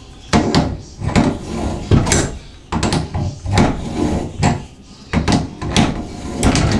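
Metal tools knocking and scraping on a Moen shower valve as the cartridge is worked loose and pulled out with a wrench: a string of irregular clunks and scrapes, several a second, with short gaps.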